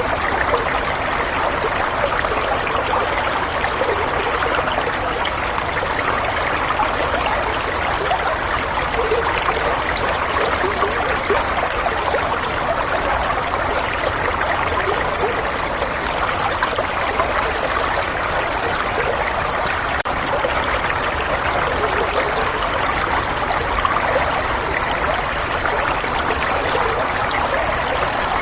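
Running water flowing and trickling steadily in an unbroken stream, used as soothing white noise.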